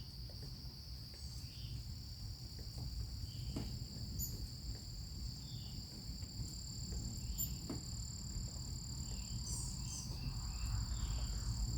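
Steady high-pitched chorus of insects, crickets or katydids, trilling without a break, with a second, higher steady trill joining about two seconds in. Under it a low rumble, with a few faint short chirps and clicks.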